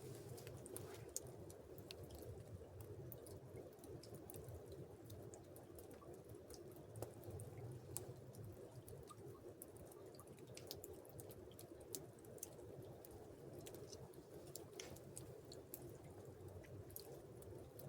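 Near silence: faint steady low background noise with scattered faint ticks and clicks.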